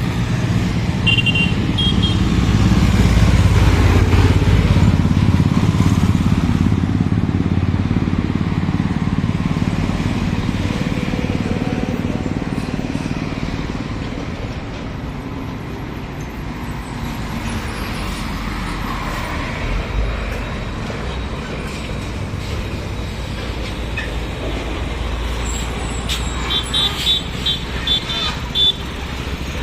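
Heavy truck passing on a highway: a deep engine and tyre rumble swells loudly a few seconds in and fades away, leaving steady traffic rumble. Near the end come a string of short high-pitched beeps.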